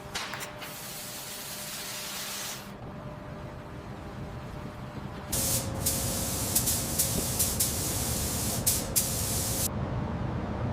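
Pressurised spray hissing in two bursts, a shorter one at the start and a louder one from about halfway that stops sharply near the end, with a few sharp clicks in it. A low steady rumble runs underneath from the second burst on.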